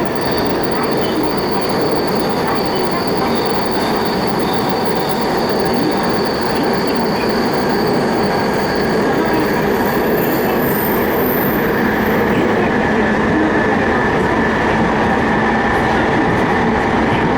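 Keiyo Line electric train running at speed, heard from inside the car: a steady rumble of wheels on rail with thin high squealing tones, one high squeal in the first half giving way to a lower whine in the second half.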